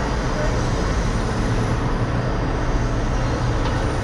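Steady low idling hum of a diesel semi-truck engine.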